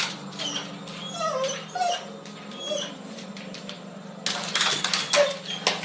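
A pet's short, high whimpering squeaks, rising and falling in pitch, over a steady low hum. A run of clicks and knocks comes in near the end.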